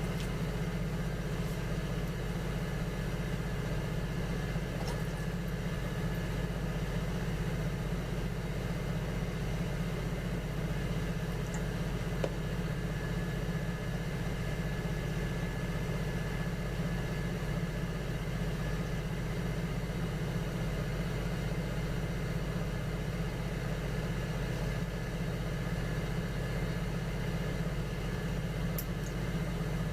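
Electric potter's wheel running with a steady low motor hum.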